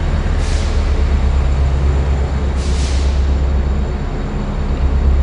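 Train running with a loud, steady low rumble; two short hisses cut in, about half a second and two and a half seconds in.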